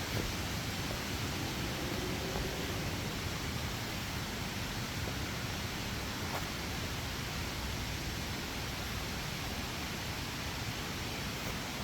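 Steady rushing of a clear rainforest stream flowing, an even noise with no breaks.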